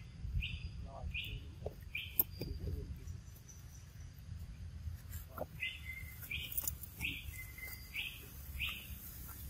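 A bird calling in two runs of short, evenly spaced chirps, about five notes in each run, with a pause of a few seconds between them. A steady low rumble lies underneath, and there is one sharp click about two seconds in.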